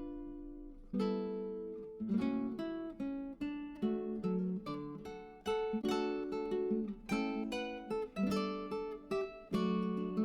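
Background music: acoustic guitar, plucked and strummed chords with ringing notes.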